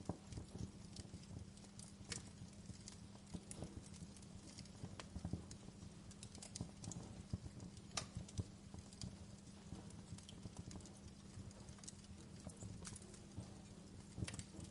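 Wood fire crackling: irregular small pops and snaps over a low, steady rumble, with a few sharper pops about two seconds and eight seconds in.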